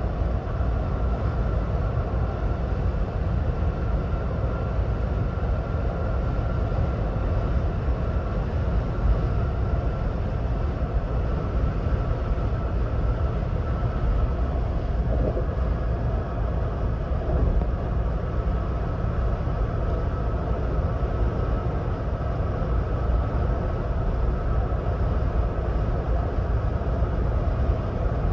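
Steady road and tyre noise of a 2026 Ford Bronco Badlands cruising at highway speed, a low, even rumble with a faint steady whine above it.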